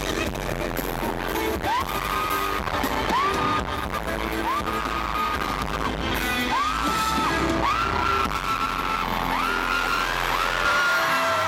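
Loud live concert music in an arena, recorded from the audience, with high screams from the crowd rising and holding again and again over it, growing more frequent toward the end.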